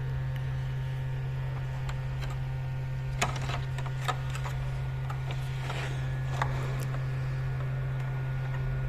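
Steady low electrical hum with a few small clicks and taps of tools on a circuit board while a fuse is being fitted, the loudest about three and four seconds in.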